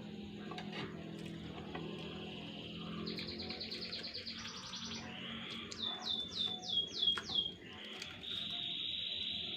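Birds chirping and trilling, with a run of about six quick falling notes in the middle and a steady buzzy trill near the end.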